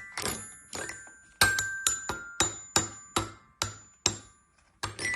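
A run of sharp taps or strikes, about two to three a second, each ringing briefly with a high metallic tone at a changing pitch, like a small glockenspiel or toy xylophone being hit, with a short pause near the end.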